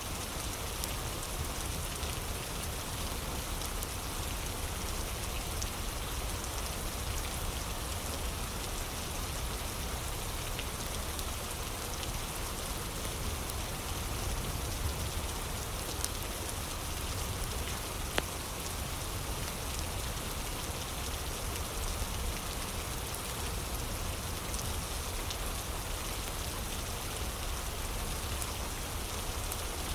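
Steady rain ambience, with a few sharp crackles of a fire now and then.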